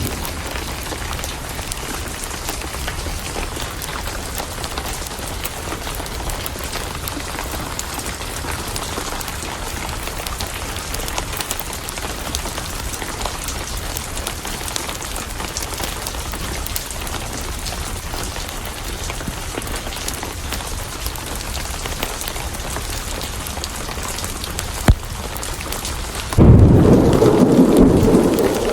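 Steady heavy rain on a surface. About 25 seconds in there is a single sharp crack, and a moment later a loud, deep roll of thunder begins and runs on.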